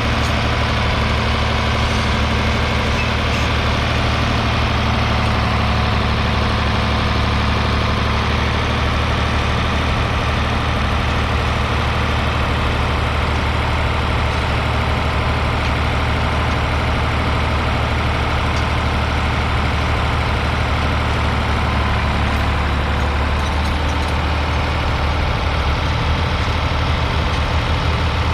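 1967 Ford 3000's 2.9-litre three-cylinder diesel engine running steadily at an even speed.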